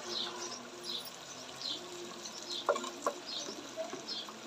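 A bird calling in the background, a short falling chirp repeated roughly once a second, over a faint hiss. Two sharp knocks come a little under three seconds in.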